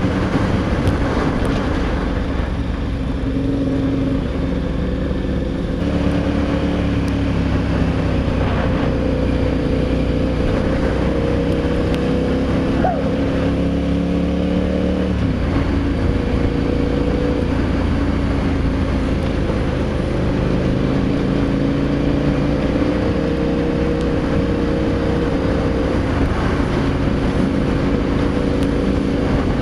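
Adventure motorcycle engine running steadily under way, its note shifting in pitch a few times as the revs change.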